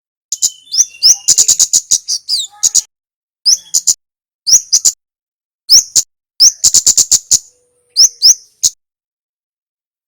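Male kemade (kemlade merah) songbird calling: sharp, high-pitched chips, some in rapid trills of four to eight, others as short slurred notes, in bursts with short pauses between.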